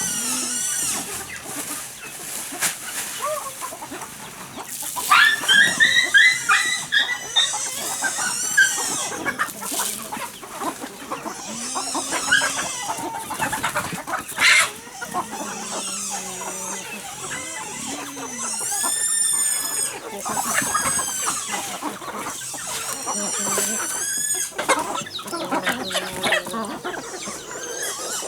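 Chickens clucking and calling, with a run of loud calls about five seconds in and high chirps scattered through.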